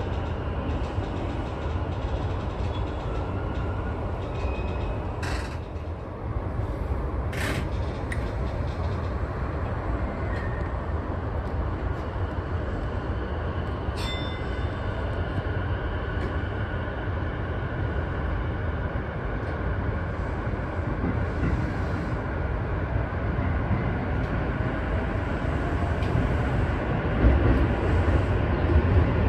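Sotetsu 12000 series electric train running, heard from inside the car: a steady low rumble with a few sharp clicks, the noise growing louder toward the end.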